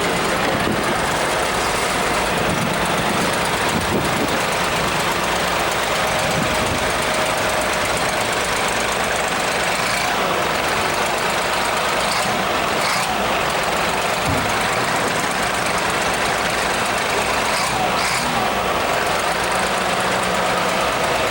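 Loader's engine running steadily while the machine and its bucket are being operated.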